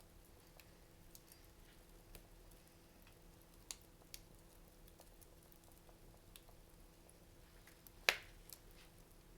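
Wood fire crackling in a fireplace: sparse faint ticks and crackles, a sharp pop a little before four seconds in and a louder pop about eight seconds in.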